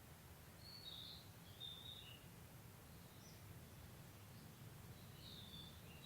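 Faint wild birds calling in short twittering phrases, once about a second in and again near the end, over a low, steady background rumble.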